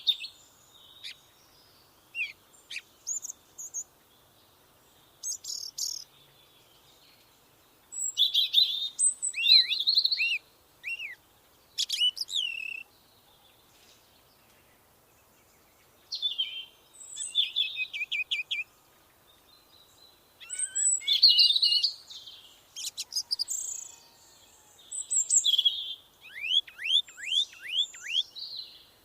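Songbird singing in separate high-pitched phrases with pauses of a second or two between them, ending in a run of quick falling notes.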